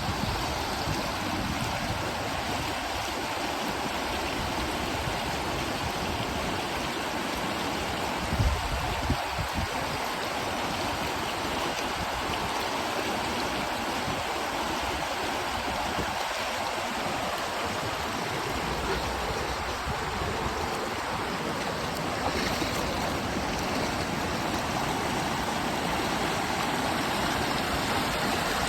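Rushing river rapids: a steady, even roar of fast white water, with a brief low thump about eight seconds in.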